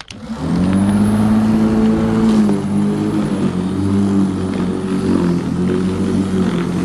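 Black & Decker 1800 W electric rotary lawnmower spinning up about half a second in, then running steadily with a hum and a faint high whine.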